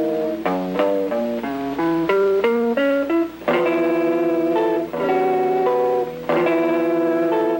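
Guitar music: a quick run of single plucked notes, then ringing chords struck about three and a half seconds in and again near six seconds.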